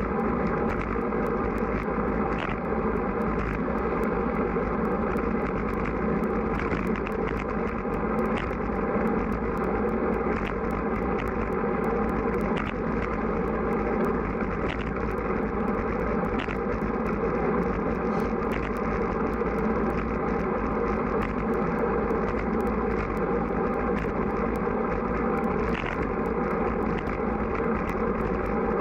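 Strong wind rushing over the microphone while riding a road bike, a steady noise with small scattered ticks.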